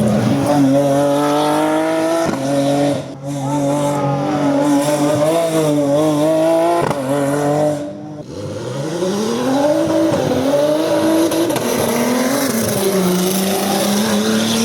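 Competition car's engine at hard throttle on a hillclimb run, pitch rising and falling through the gears. It lifts briefly twice, about three and eight seconds in, then accelerates hard again with a long rising pitch.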